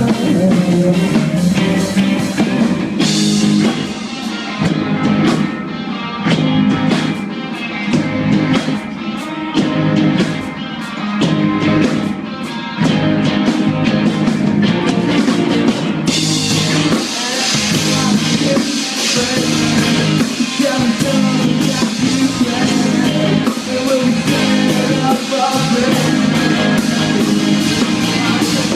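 Rock band playing live, with guitar, drum kit and singing. The sound thins out after about three seconds, then the full, louder band comes back in about halfway through.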